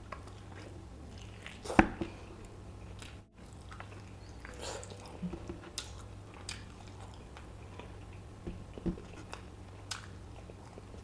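Close-miked biting and chewing of braised oxtail mechado, tearing tender meat off the bone: wet mouth clicks and smacks scattered throughout, the sharpest about two seconds in.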